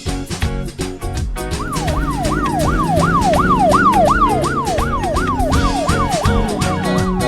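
Emergency-vehicle siren sound effect over background music with a steady beat. From about a second and a half in, the siren repeats fast, each cycle sweeping sharply downward in pitch, about three cycles a second.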